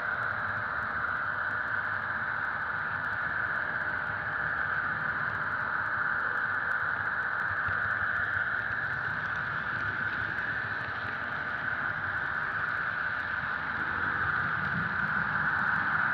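HO-scale model EMD diesel locomotive running steadily: the Soundtraxx Tsunami sound decoder's diesel engine sound plays through the model's small speaker, heard as a steady, tinny hum.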